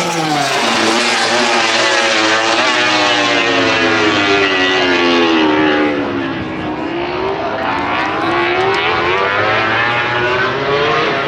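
Racing motorcycle engines running on the circuit. Their pitch falls slowly over the first half as they slow, then climbs again as they accelerate.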